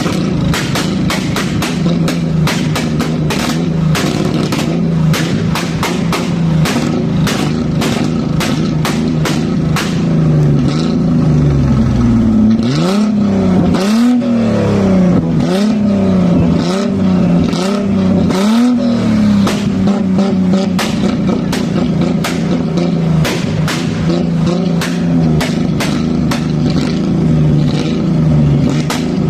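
A car engine revving in about five quick blips, each rising and falling in pitch, around the middle of the stretch, over loud background music with a steady beat and bass line.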